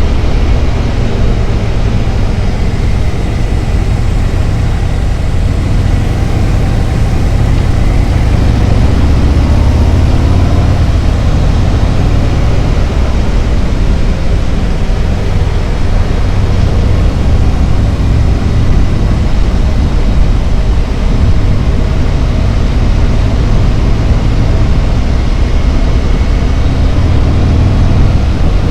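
Harley-Davidson Road Glide's V-twin engine running steadily at cruising speed, a loud low rumble mixed with an even rush of wind and road noise.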